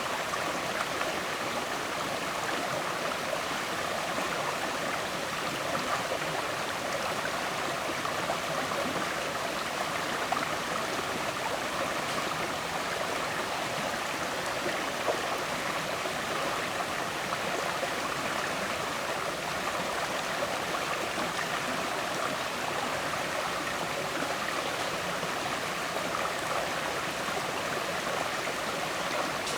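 River water flowing and gurgling steadily, with small splashes and ripples.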